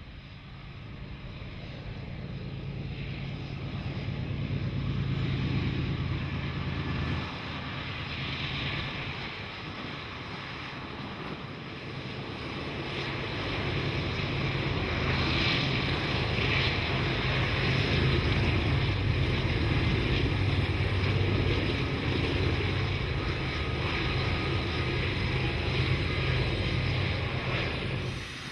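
Diesel locomotives of a freight train passing, a steady low engine drone under a noisy hiss. It swells, eases briefly, then builds and stays loud until it cuts off suddenly near the end.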